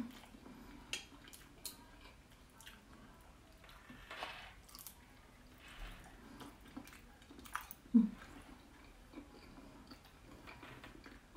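Quiet mouth sounds of a person chewing noodles: soft wet clicks and smacks, a brief airy breath about four seconds in and a short hummed "mm" about eight seconds in.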